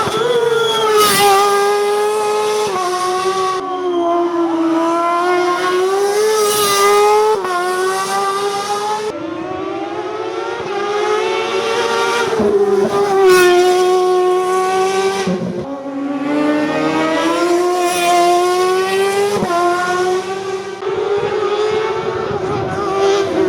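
Race car engine revving hard at full throttle, its pitch climbing and then dropping sharply about four times.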